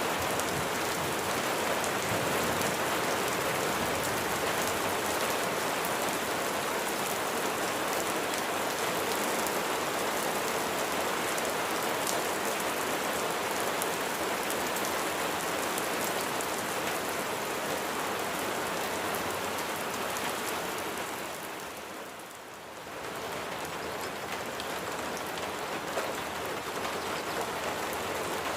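Steady rain falling, a dense patter of drops on surfaces. About two-thirds of the way through it eases briefly, then picks up again.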